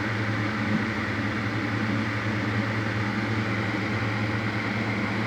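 Steady machine hum with an even hiss, unchanging throughout: the background noise under the narration's microphone.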